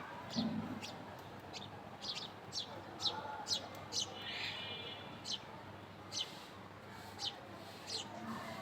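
Small birds chirping: a steady run of short, sharp, downward-sweeping chirps, about two a second, with one longer buzzy call about halfway through.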